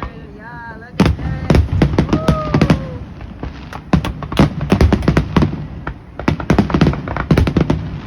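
Fireworks grand finale: a rapid, irregular barrage of sharp aerial shell bangs, several a second, going on throughout.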